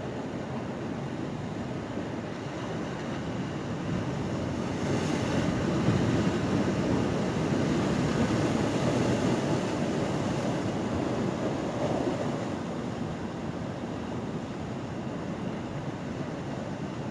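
Ocean surf washing in at a pier, a steady rushing noise that swells up about four seconds in and fades back after about twelve seconds as a wave comes through.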